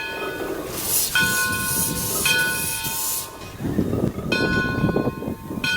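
A steam locomotive's bell ringing, struck four times about a second or two apart, each stroke ringing on, over a burst of steam hiss for the first few seconds and a low rumble.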